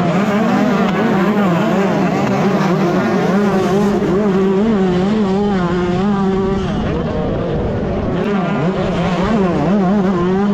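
125cc two-stroke motocross bike engine running hard under race throttle, its pitch rising and dipping over and over as the rider opens and closes the throttle.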